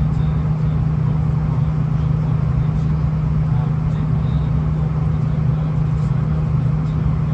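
Cabin sound aboard a V/Line VLocity diesel multiple-unit train: a steady low engine drone with a constant hum, even in level throughout.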